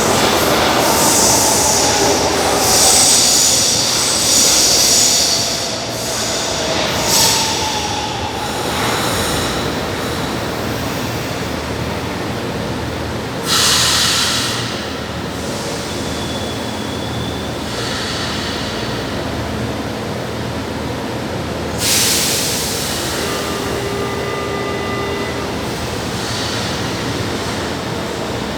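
São Paulo Metro train moving through an underground station, with a steady rumble and high-pitched wheel squeal in the first few seconds. Sudden loud hisses break in about halfway through and again near the end.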